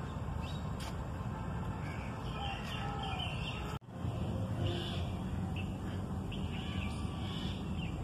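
Several birds chirping and calling in short, high notes over a steady low rumble. The sound drops out for an instant about four seconds in.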